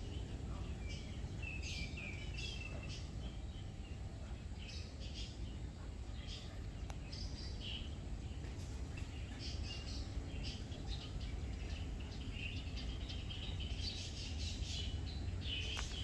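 Small birds chirping on and off, short high calls scattered throughout, over a steady low background rumble.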